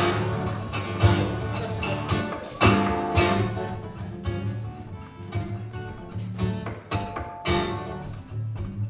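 Live folk band playing an instrumental break between sung verses: acoustic guitar strumming, with several sharp percussive hits.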